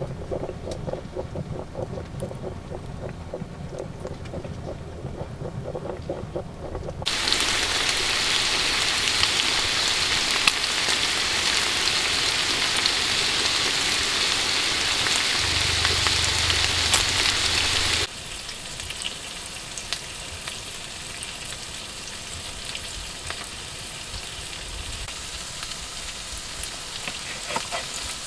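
Food frying in a pan: an even, loud sizzle that cuts off suddenly about eighteen seconds in, leaving a quieter sizzle with light clicks. Before it, for the first seven seconds, a lower, pulsing sound of a different kind.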